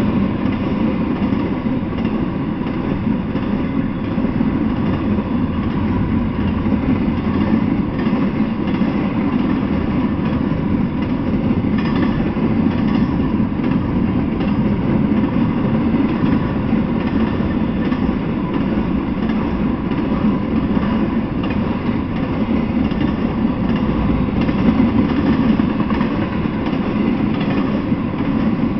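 Intermodal freight train of container and trailer flatcars rolling past on the rails: a steady, loud noise of steel wheels on track.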